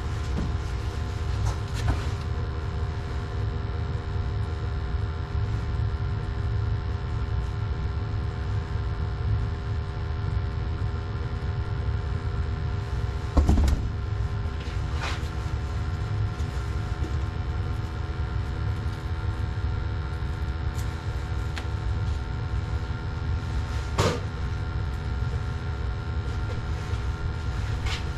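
Gas water heater burners firing: a steady low rumble with a steady hum over it. A few scattered clicks and knocks come through, the loudest about thirteen seconds in.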